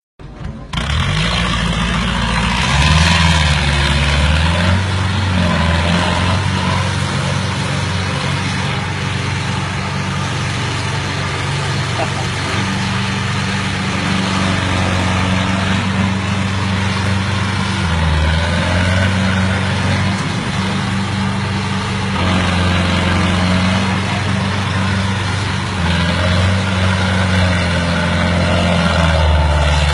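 Tractor engine running, its revs rising and falling repeatedly.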